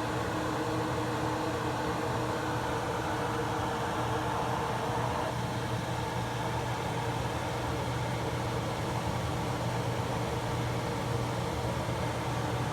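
Steady mechanical hum with a strong low tone and a few fainter steady higher tones over an even noise.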